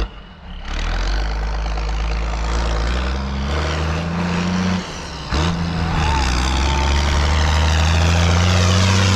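New Holland 7840 tractor's diesel engine running, coming in about a second in. The revs rise and hold, dip briefly past the middle with a click, then climb again and hold steady.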